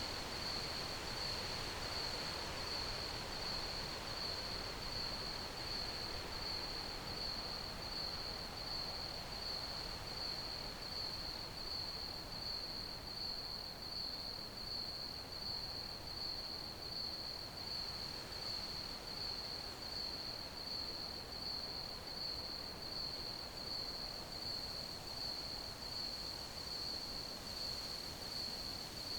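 Crickets chirping in a steady, fast-pulsing high-pitched trill that goes on without a break, over a soft even hiss of background noise.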